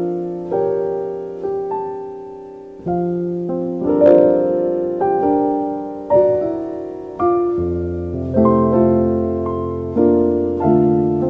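Slow solo piano music: chords struck about once a second, each ringing and fading, with deep bass notes entering about two-thirds of the way through.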